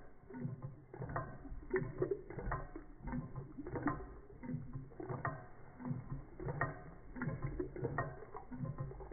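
Reichelt Adler model Stirling engine running with the small Péricaud pump it drives, its linkage giving a regular clack roughly every three quarters of a second over a low mechanical hum.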